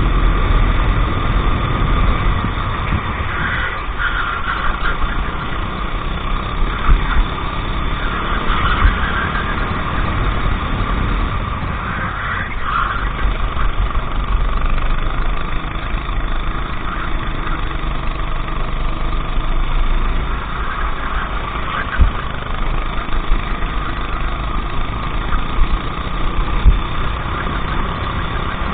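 Racing kart engine running under load, its pitch rising and falling every few seconds as the kart accelerates and brakes around the track, over a strong low rumble. A few sharp knocks occur, one about 22 seconds in.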